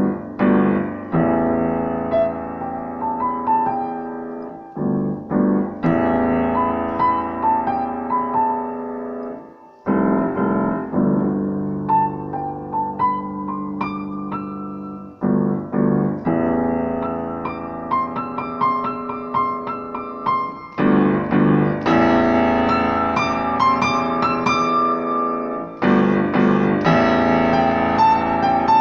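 Piano music: slow, sustained chords with a simple melody above them, in phrases that restart about every five seconds.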